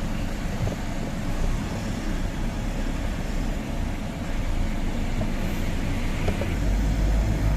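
Tata 1512 truck's diesel engine running on the move, a steady low rumble with road noise; the low engine drone grows stronger near the end.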